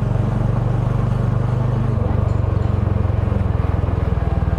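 Motorbike engine running at low, steady revs with an even, rapid pulsing beat that changes slightly about two seconds in.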